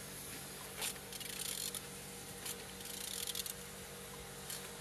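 Used engine being turned over by hand, giving three short bursts of fine rapid clicking or rasping over a faint steady hum.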